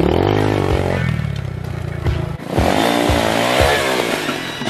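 Apollo 250 pit bike's single-cylinder four-stroke engine being revved in short blips. It is revved once at the start, settles lower for about a second and a half, dips briefly, then is blipped up and down again several times.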